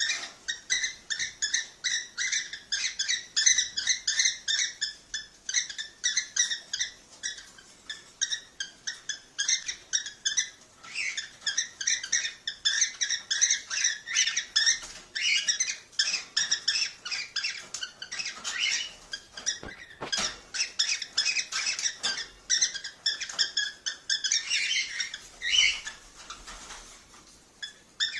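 Cockatiels chirping and chattering in a fast, continuous run of short, high calls, several a second, with a brief lull about ten seconds in and a softer patch near the end.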